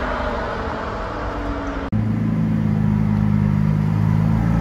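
Supercar engine and exhaust sound. About two seconds in, an edit cuts to another car whose engine runs at steady revs with a strong, deep, even note.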